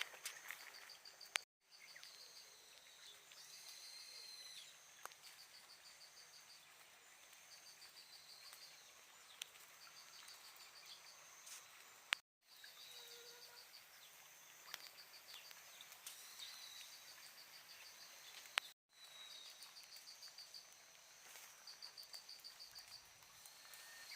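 Faint outdoor ambience of insects chirping in repeated short pulsed trains, with a few bird chirps. The sound drops out completely three times for an instant.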